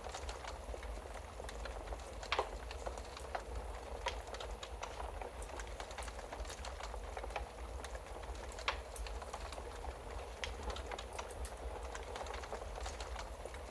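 Wood fire in a fireplace crackling steadily, with sharper pops about two seconds in and again near nine seconds, over a low steady rumble.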